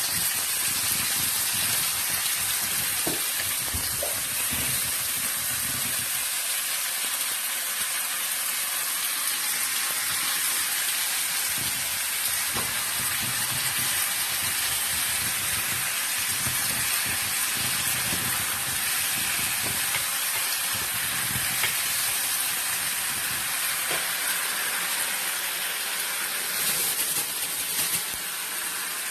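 Food frying in a hot pan, a steady sizzle with a few faint knocks.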